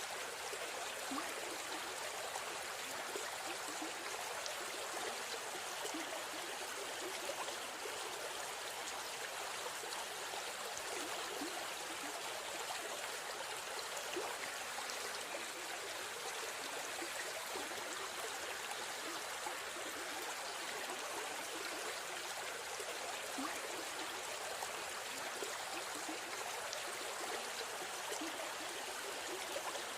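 River stream flowing steadily, a continuous rush and babble of water with no pauses or changes.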